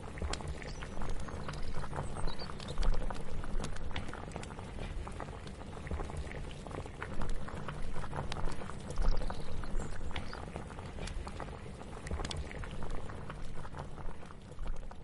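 Kitchen ambience: a pot bubbling at a boil, under irregular clicks and knocks of kitchen clatter.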